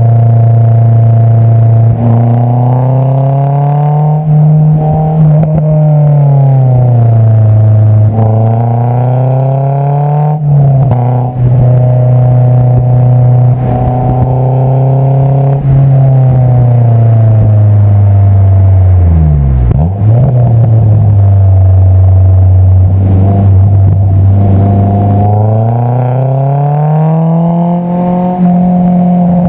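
Honda S2000 AP2's 2.2-litre inline-four heard at the tailpipe through an Invidia Q300 exhaust while driving. Revs climb and drop again and again with the gear changes, with a brief dip and recovery about two-thirds of the way through.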